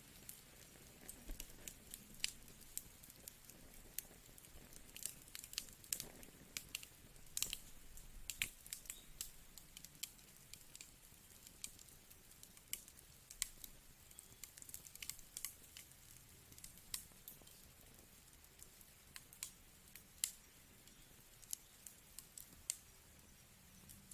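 Wood fire burning, with irregular sharp crackles and pops over a faint steady hiss.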